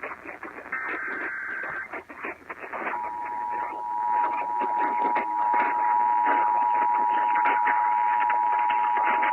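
Emergency Alert System tones received over weather radio. Short buzzing digital header bursts come first. About three seconds in, the steady two-tone EAS attention signal starts and holds, over radio static and crackle.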